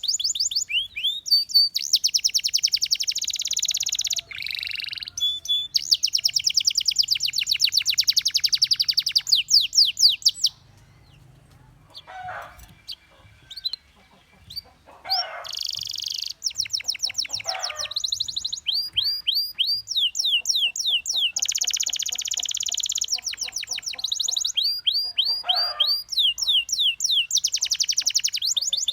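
Domestic canary singing in fast rolling trills of rapidly repeated high notes. About ten seconds in, the song breaks off for a few seconds, with only a few lower chirps, then the trills resume.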